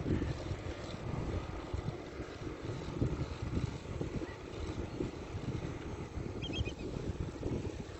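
Wind buffeting the microphone of a camera on a moving bicycle: an uneven low rumble. A brief high chirp sounds about six and a half seconds in.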